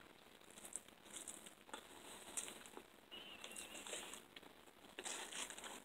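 Faint chewing and small wet mouth clicks of someone eating a fried chicken sandwich, with a brief faint high wavering squeak about three seconds in.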